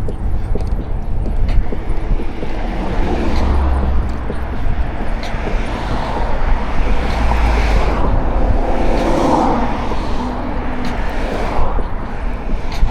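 Road traffic passing while riding a bike, with a heavy low rumble of wind on the camera microphone; vehicle noise swells and fades several times.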